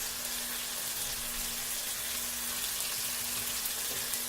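Onion, tomato and garlic ginger paste frying in hot oil in a pan, a steady sizzling hiss, with a steady low hum underneath.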